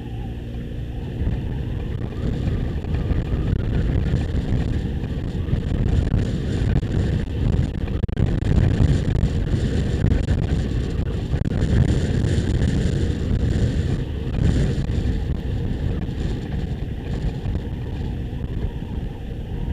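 Motorcycle riding on the road: the engine runs under heavy wind buffeting on the microphone. It grows louder a couple of seconds in and eases off slightly near the end.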